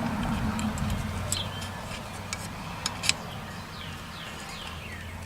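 A few sharp small clicks and taps of metal carburetor parts being handled, the loudest about three seconds in. Birds chirp in short falling notes behind, over a low steady hum.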